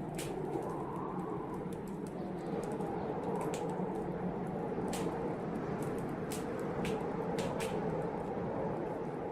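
Wood fire crackling in a fireplace, with sharp irregular pops and snaps over a steady low rush of blizzard wind.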